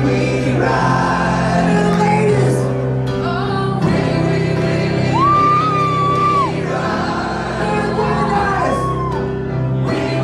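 Live rock band playing through a concert PA with a singer, one long high note held and bending about halfway through, recorded on a phone.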